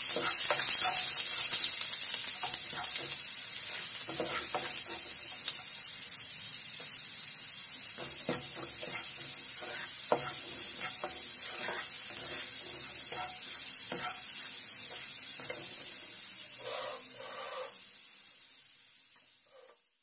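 Chopped garlic and cumin seeds sizzling in hot oil as the garlic is lightly browned, with a spatula scraping and tapping the pan now and then as they are stirred. The sizzle fades out near the end.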